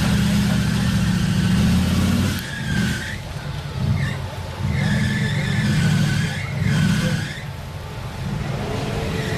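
Modified 4x4 competition truck's engine revving hard, held for about two seconds and then in several shorter bursts as it works an obstacle, with a high squeal riding on the later bursts.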